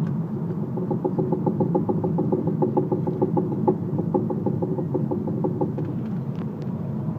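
Audi A3 coasting with the clutch in: a quick, even knocking, about six knocks a second, over the steady drone of the car, dying away about six seconds in.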